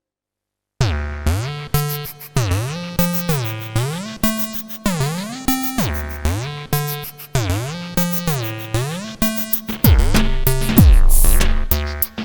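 Alesis Micron SE synthesizer playing a custom pattern preset: a repeating sequenced phrase of synth notes that slide up and down in pitch between notes, starting after a brief silence. About ten seconds in, a heavier, denser drum-machine-like low layer joins the pattern.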